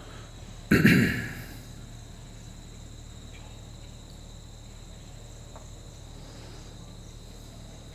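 Crickets chirping steadily in the background as a constant high tone. About a second in, a short loud burst of noise rises and fades.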